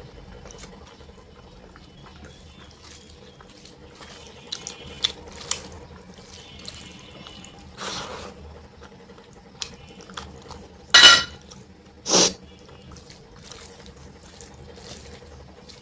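Wet eating sounds of dal and rice: small smacks and squelches, with two much louder short hissing sounds close together about two-thirds of the way through.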